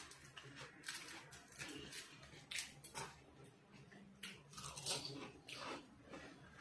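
A person eating close to the microphone: irregular bites and chewing with short crunchy clicks, two louder ones about two and a half and five seconds in.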